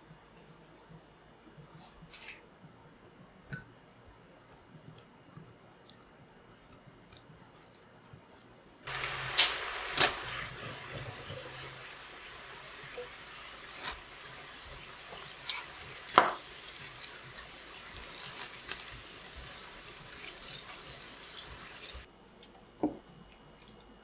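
Kitchen tap running into a sink. The water comes on suddenly about nine seconds in and is shut off near twenty-two seconds, with dishes clinking under it. Light handling clicks come before it, and a single knock follows near the end.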